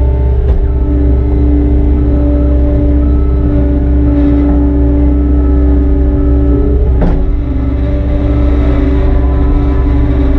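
Engine of a bucket-equipped earthmoving machine running steadily under work, loud and close, with two sharp knocks, one about half a second in and one around seven seconds in.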